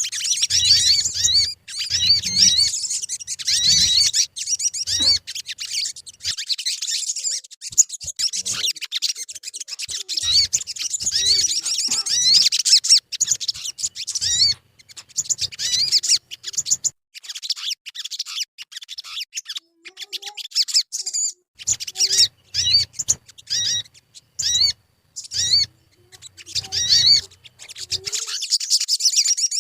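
Sogon birdsong used as a lure recording to set caged birds singing: rapid, high, wavering chirps and twitters. The chirping runs without a break for about the first half, then comes in short bursts with gaps, with faint low thumps under some bursts.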